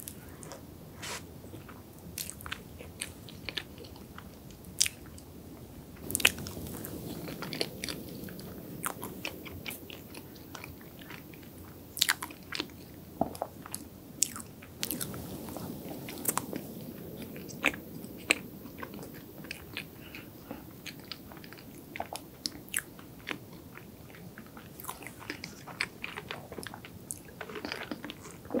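Close-miked chewing of soft chocolate desserts and cream-filled choux pastry: wet mouth sounds with sharp lip smacks and clicks at irregular moments. Near the end she drinks, with a swallow.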